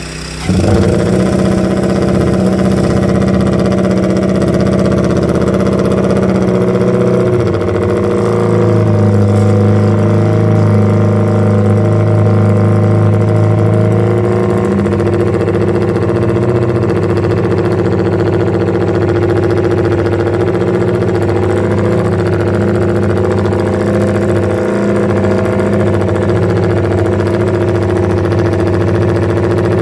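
Honda RC142 125 cc twin-cylinder racing engine firing up about half a second in, then running steadily at a fast idle. Its note shifts slightly around eight seconds in.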